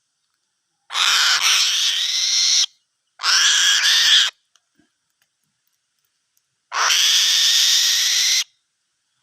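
An eagle giving three long, harsh screeching calls, each about one and a half to two seconds long, the last one a few seconds after the first two.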